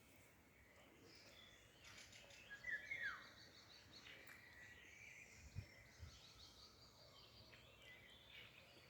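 Faint birdsong: several small birds chirping and trilling, with a quick falling whistle about three seconds in. Two soft low thumps a little past the middle.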